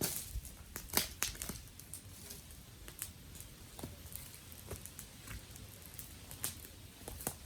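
Dry wood crackling and snapping: irregular sharp pops, about one or two a second, the strongest right at the start and about a second in.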